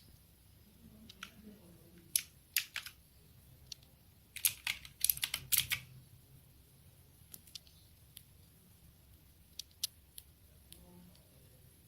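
Clicky blue switches on a Rexus MX5 Legionare tenkeyless mechanical keyboard being pressed one key at a time, sharp separate clicks with a quick run of several presses about four to six seconds in.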